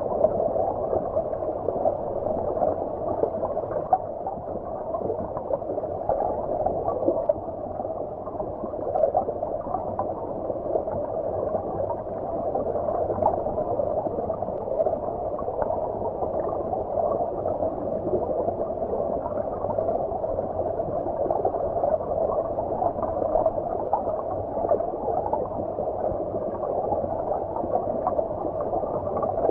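Stream water heard underwater: a steady, muffled gurgling wash with no treble and small bubbly flickers throughout.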